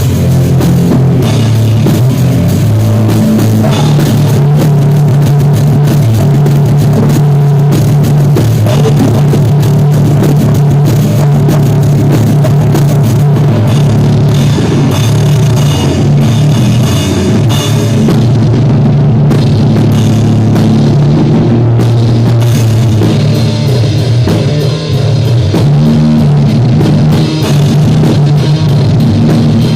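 A live rock band playing at full volume, with drum kit, distorted guitar and bass, recorded loud and rough in a rehearsal room.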